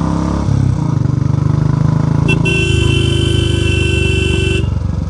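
A Royal Enfield Classic 350's single-cylinder engine running through a loud aftermarket 'mini Punjab' silencer while riding. A vehicle horn sounds for about two seconds midway.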